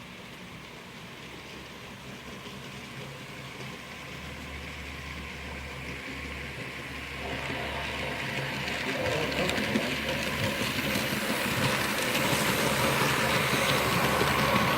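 Model coal train on the layout approaching, growing steadily louder: the locomotive's motor hum joined by wheels clattering and ticking over the track.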